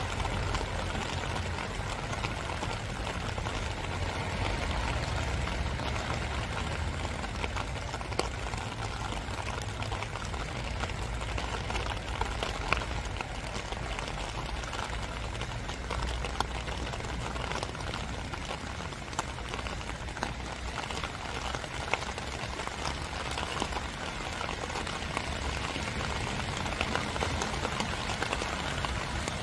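Steady spring rain falling, a constant hiss with scattered sharper drips tapping close by.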